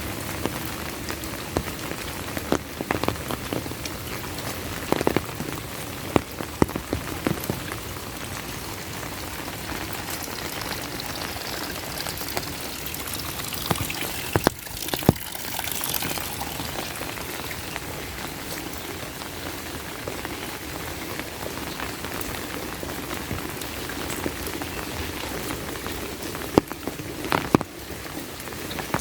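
Heavy rain falling steadily, with a few clusters of sharper, louder drop hits now and then.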